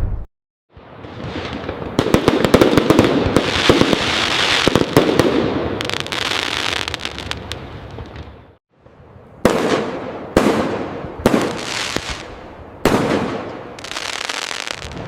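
Aerial fireworks display: a dense volley of sharp bangs over steady crackling for the first half. After a brief gap comes a slower series of separate loud bursts, each trailing away.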